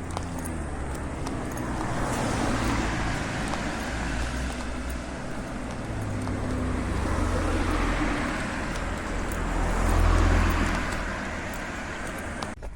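Cars passing by on a road one after another, their tyre and engine noise swelling and fading, loudest about ten seconds in.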